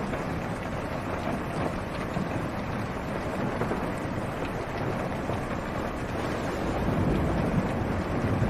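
Steady rain drumming on a car's roof and windshield, heard from inside the car as an even wash of noise. A low rumble swells slightly near the end.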